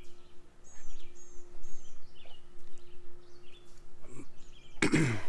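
Songbirds calling, with a high thin note repeated three times about half a second apart, about a second in, and other scattered chirps. A steady low hum runs underneath, and a brief voice sound comes near the end.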